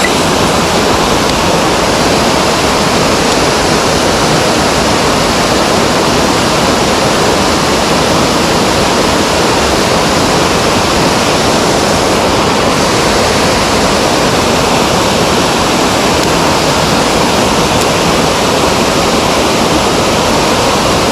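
Mountain stream water rushing loud and steady, an unbroken wash of noise close to the microphone.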